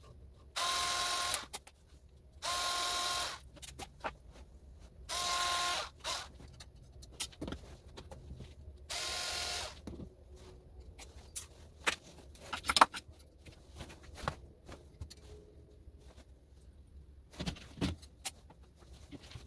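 A cordless drill running in four short bursts of about a second each, with a steady whine, as screws are driven out of plugs. After them come scattered clicks and knocks of small plastic and metal plug parts being handled.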